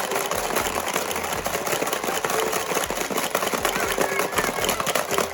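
Frog-egg-eating board game in play: rapid, continuous plastic clicking and clattering of the game pieces and balls, over a steady small-motor whir.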